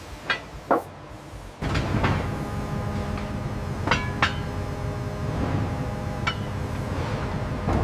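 Metal clinking and knocking: two sharp knocks, then a steady industrial hum with faint steady tones starts about a second and a half in. A few more metallic clinks ring out over the hum.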